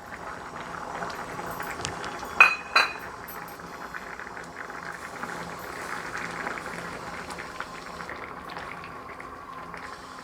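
A pot of curry bubbling steadily at the boil, with two sharp, ringing metallic clinks about two and a half seconds in.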